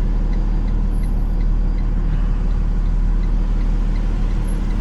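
Box truck's engine running steadily, a deep rumble heard from inside the cab, with a faint light ticking repeating two or three times a second.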